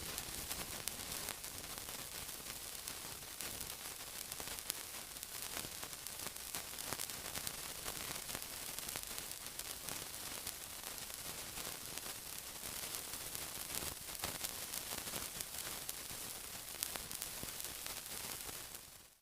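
Steady sizzling: a continuous hiss thick with fine, rapid crackles, holding an even level throughout.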